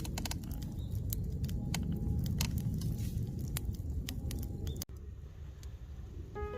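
Wood campfire crackling, with irregular sharp pops over a low rumble. About five seconds in the sound cuts abruptly to a quieter background.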